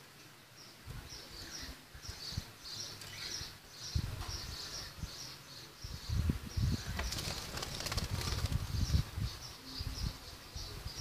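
Small songbird chirping, short high notes repeated two or three times a second. From about six seconds in, wings flap against a mesh screen as low fluttering beats.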